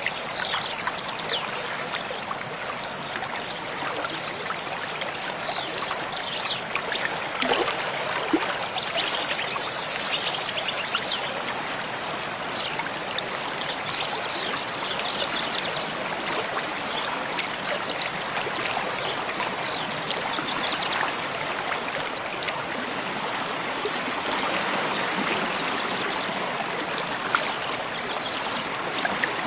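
Mountain stream flowing steadily over rocks, a constant rushing of water, with short high bird calls breaking through now and then.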